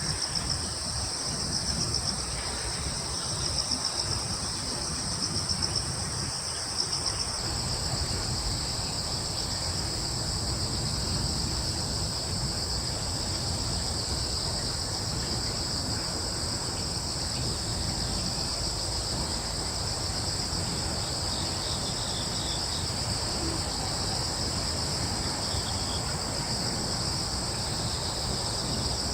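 A chorus of crickets chirring steadily on two high pitches, pulsing in a quick rhythm for the first several seconds and then running on evenly, with a low steady rumble underneath.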